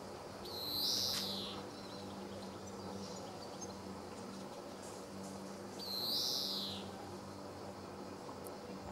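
Male European greenfinch giving its drawn-out wheeze twice, about five seconds apart: each note lasts about a second and rises then falls in pitch. Faint chirps come between the notes over a steady low hum.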